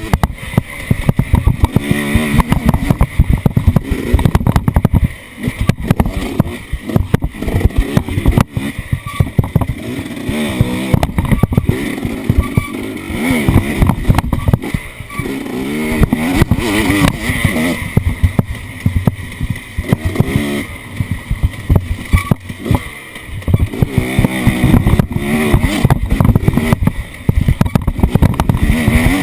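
Off-road vehicle engine revving up and down again and again while driving, with frequent knocks and rattles.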